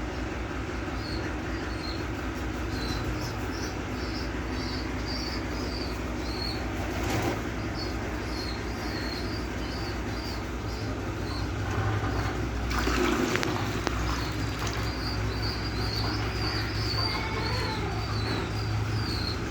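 Pigeon squabs squeaking with short, high begging peeps about two a second as they are fed, over a steady low rumble. A brief rushing noise comes about 7 s in and a longer one around 13 s.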